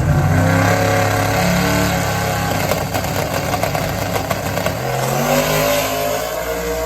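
Turbocharged drag car engine accelerating hard, its pitch climbing, then dropping and climbing again about five seconds in, as at a gear shift.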